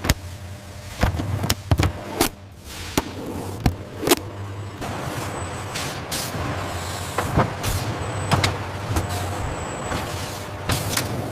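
Industrial machinery running with a steady low hum, broken by irregular sharp metal clanks and knocks.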